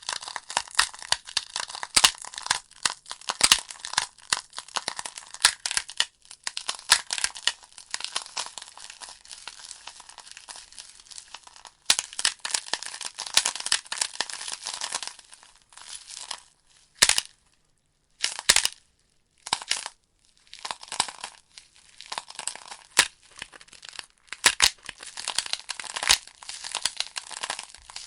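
Burning logs in a fireplace crackling and popping: a dense stream of sharp snaps and crackles. About two-thirds of the way through it briefly thins to a few isolated loud pops before picking up again.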